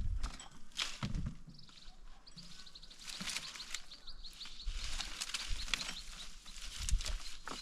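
A small bird calling a quick run of short high chirps for a couple of seconds, over outdoor ambience with scattered clicks and knocks.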